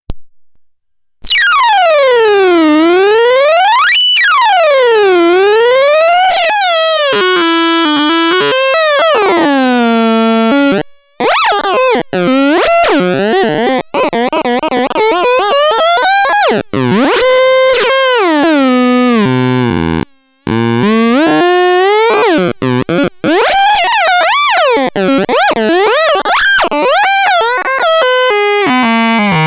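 Multiton electronic sound generator playing synthesized tones. It opens with two swooping glides that fall and rise again, then moves into stepping, warbling pitch patterns broken by brief cut-outs.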